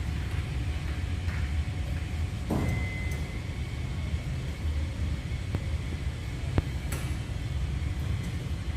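Steady low rumble of a car running. A faint steady high tone comes in about two and a half seconds in, and a few sharp clicks fall near the end.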